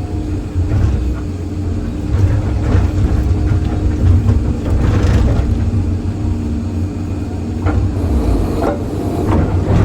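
Excavator's diesel engine running steadily under hydraulic load while the bucket pries at a thick reinforced concrete slab, with several sharp knocks and scrapes of steel against concrete, clustered in the second half.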